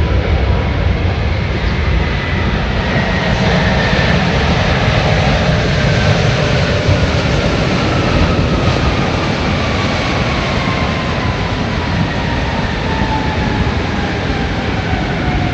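Jet airliner's engines running as it passes, a steady rush of noise with a thin whine that falls slowly in pitch.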